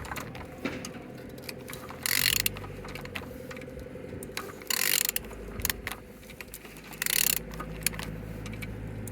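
Z13DTH 1.3 CDTI four-cylinder diesel engine being turned over by hand with a ratchet wrench, with ratchet clicks and three short hissing bursts about two and a half seconds apart. It turns freely and has compression on all cylinders.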